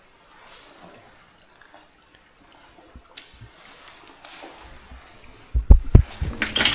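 Faint trickling water in a flooded mine level, with a few sharp drips. Near the end come a couple of heavy low knocks and crackly scuffing.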